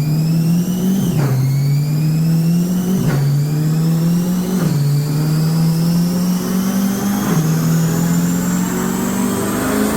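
Procharged C8 Corvette V8 on a chassis dyno, pulling hard through the gears with its LeMans Edition center-exit track exhaust. Revs climb steadily and drop quickly at four upshifts, about one, three, four and a half and seven seconds in. A high whine rises and falls with the revs.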